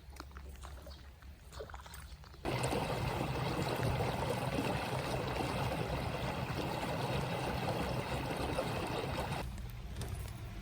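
Steady rushing water noise that starts abruptly about two seconds in and stops abruptly near the end.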